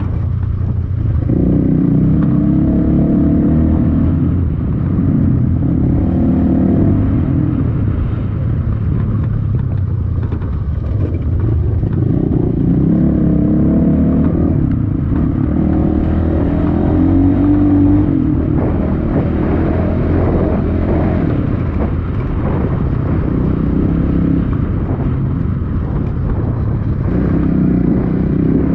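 Dirt bike engine running under way while riding, its revs rising and falling repeatedly with the throttle, over a steady rumble of wind and road noise.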